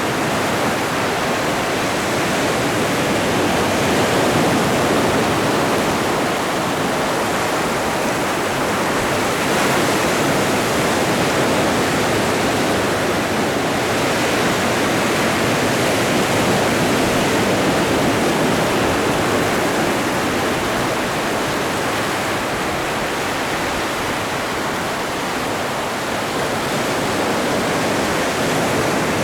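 Atlantic Ocean waves washing in continuously, a steady rushing surf with only slight, slow rises and falls in level.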